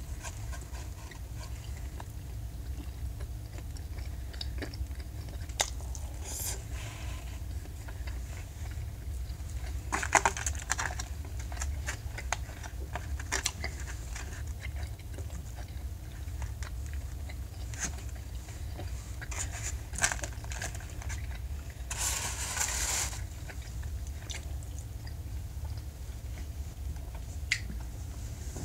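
Close-up chewing and mouth sounds of a person eating, with scattered sharp clicks from a fork working in a styrofoam takeout box, over a steady low hum. Two brief louder rustling noises come about a third and three quarters of the way in.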